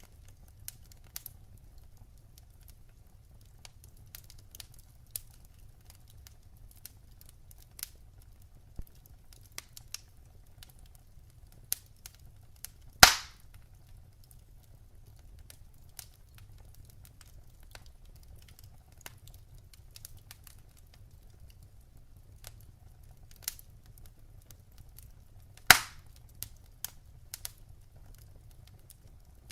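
Wood fire in a fireplace crackling: scattered small pops and snaps over a steady low rumble, with two loud sharp pops, one near the middle and one near the end.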